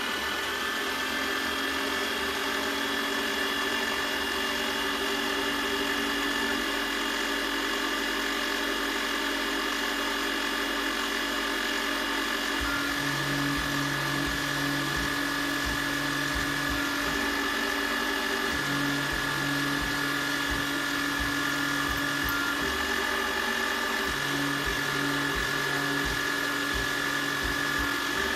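Electric power tool motor reaching full speed right at the start, then running with a steady high whine. From about halfway through, a lower hum comes and goes in stretches of a few seconds.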